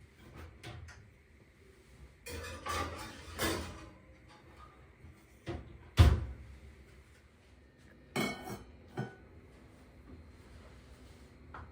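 Dishes and utensils being handled: scattered clinks and clatters, with one loud knock of something set down about six seconds in.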